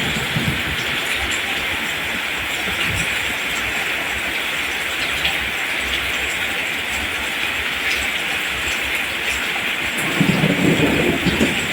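Steady rain falling on a field of rice plants, an even hiss. A deeper, uneven rumble joins in near the end.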